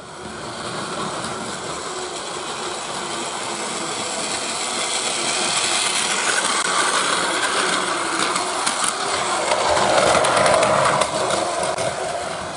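Train running on rails, growing louder to its loudest about ten seconds in, with rail clicks, then easing off.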